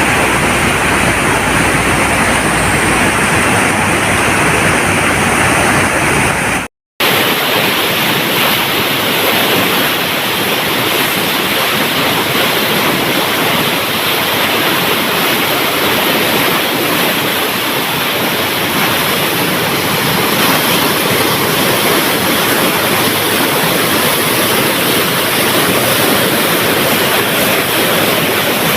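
Steady rush of water pouring through a dam, with a brief dropout about seven seconds in.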